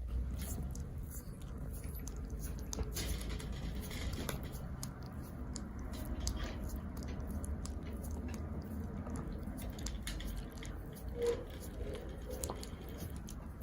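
A dog licking a person's hands and feet: quick, uneven wet smacking and lapping clicks, with a brief squeak about eleven seconds in.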